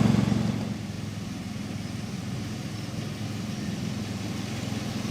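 A small engine running steadily with a low hum, fading somewhat in the first second and then holding steady.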